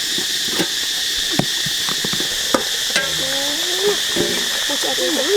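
Scattered clicks and knocks of cooking utensils stirring food over a steady high hiss. Short pitched sounds that rise and fall come in the second half.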